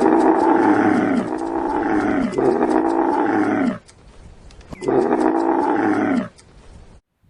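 A large animal calling: four long, loud calls, each falling in pitch, the last after a short pause.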